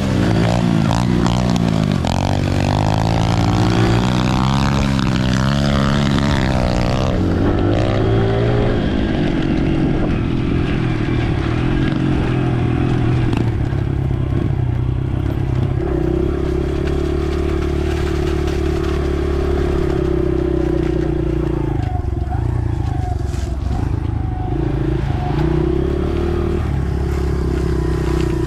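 Dirt bike engine running while riding a trail. Its pitch rises and falls with the throttle for the first several seconds, then holds steadier, dipping briefly near the end.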